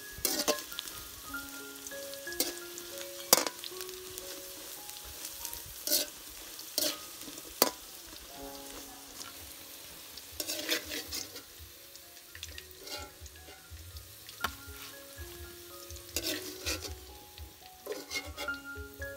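Food sizzling in a hot pan, with a spoon or spatula stirring and knocking against the pan at irregular moments.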